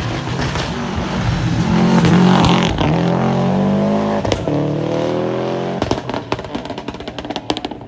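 A rally car's engine at full throttle, its pitch climbing as it accelerates past, followed near the end by a rapid string of sharp crackles.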